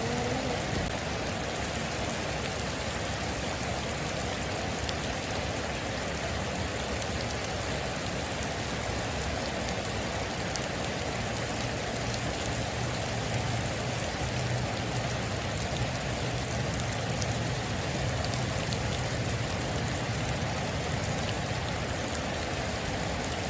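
Heavy rain drumming steadily on a metal roof: a dense, even hiss with fine individual drop ticks through it.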